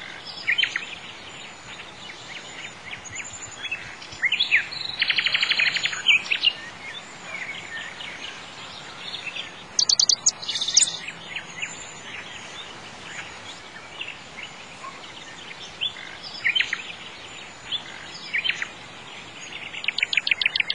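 Songbirds chirping and singing over a steady faint hiss. There are rapid trills about five seconds in and again near the end, and a burst of sharp high chirps about ten seconds in.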